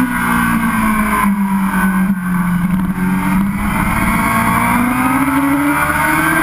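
Sport motorcycle engine heard from on board at road speed with wind rush. The revs ease off a little early on and hold, then climb steadily through the last few seconds.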